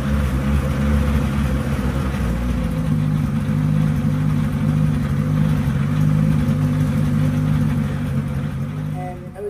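Honda K-series four-cylinder engine in an AWD Civic drag car running steadily, just brought back to life after an engine swap. Its note shifts slightly a couple of seconds in, and it fades near the end.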